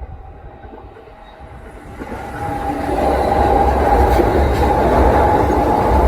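Kintetsu electric train approaching and passing: a rumble that builds from about two seconds in, with a steady whine over it and a few sharp clacks of wheels over rail joints.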